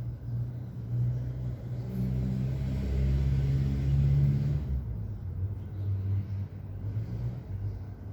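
A motor vehicle's engine running close by: a low rumble that swells, is loudest about three to four seconds in, then drops off abruptly, leaving a fainter engine hum.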